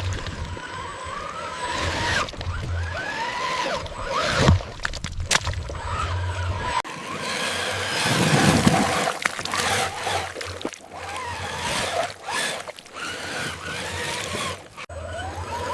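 Miniature RC off-road truck driving over rough ground: its motor whine rising and falling in pitch, with scattered clicks, knocks and scrapes. The sound changes abruptly twice, about 7 and 15 seconds in.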